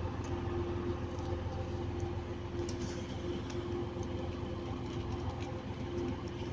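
Class 185 diesel multiple unit standing with its engine idling: a steady drone with a constant humming tone.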